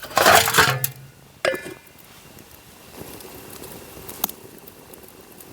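Metal cooking pot and utensils clattering: a loud rattling burst, then a sharp clank that rings on briefly about a second and a half in, and one more click later, as rice is put on to cook.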